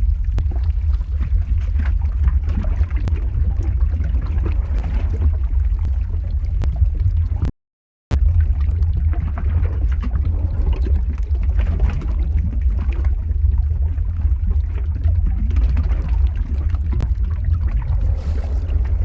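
Lava flow ambience sound effect: a steady deep rumble with scattered sharp crackles over it. It cuts out completely for about half a second midway, then resumes as before.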